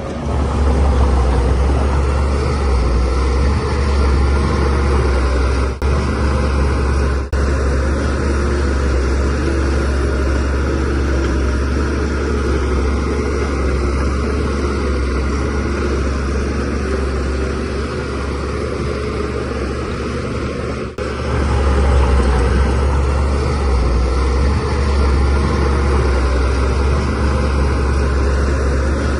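DH17C3 bulldozer's diesel engine running steadily under working load, with the pitch and loudness rising and falling as the load changes. It is louder again from about two-thirds of the way through, with a few very short dropouts.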